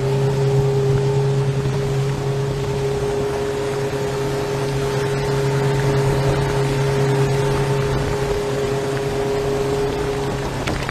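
2004 Yamaha 115 hp four-stroke outboard on an 18-foot Scout centre console running at a steady speed, a constant even hum over water and wind noise. A brief knock near the end.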